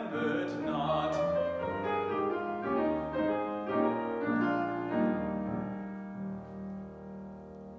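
A classical solo voice finishes its last sung note about a second in. Piano plays the closing bars of the art song alone, ending on a held chord that slowly fades.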